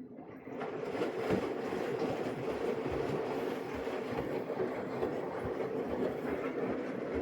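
Samsung AddWash front-loading washing machine running mid-cycle: the drum tumbling wet laundry, with rushing water and irregular small knocks. It gets much louder about half a second in, then holds steady.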